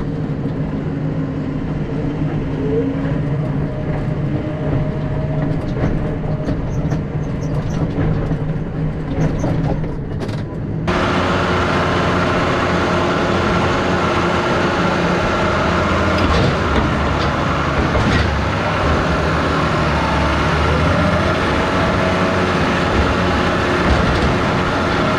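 Tractor engine running steadily while straw is shaken out; about eleven seconds in the sound turns suddenly fuller and louder and stays that way.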